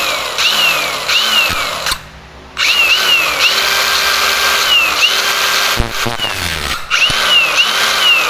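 Handheld power tool cutting metal in two runs, with a short stop about two seconds in. A harsh hiss sits under a high whine that repeatedly dips and climbs back as the cut loads the tool.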